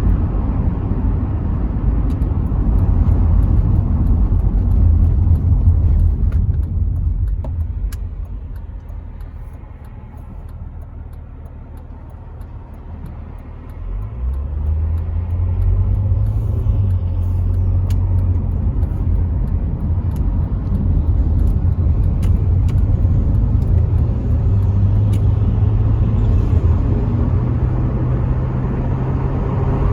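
Rover 75 V6 estate on the move, heard from inside the cabin: engine, tyre and wind noise through part-open windows. The rumble falls away as the car slows about a quarter of the way in, then the V6's note rises as it accelerates about halfway through and settles into a steady cruise.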